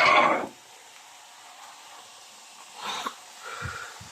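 Vegetables frying in a pan with a quiet, steady sizzle, opened by a short loud burst of noise about half a second long, with a softer burst and two low thumps near the end.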